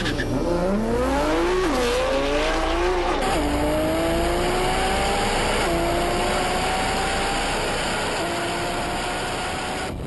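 Heavily tuned R35 Nissan GT-R's twin-turbo V6 pulling hard under full acceleration, its pitch climbing and dropping sharply at each upshift. It makes four upshifts: two close together in the first three seconds, then longer pulls in the higher gears.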